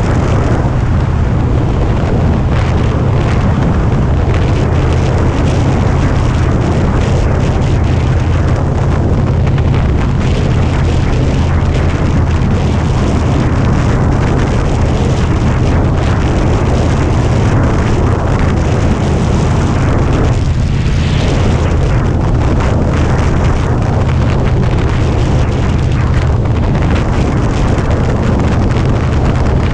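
Harley-Davidson Dyna Street Bob's V-twin engine running steadily as the motorcycle cruises along, with wind rushing over the microphone.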